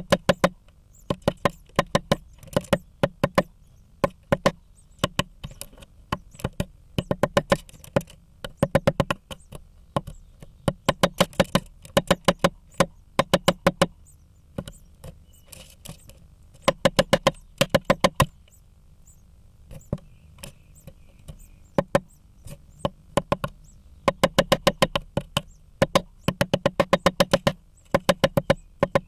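Great spotted woodpecker hammering at a blue tit nest: repeated bursts of rapid sharp knocks, many strokes a burst, with short pauses between. A low steady hum runs underneath.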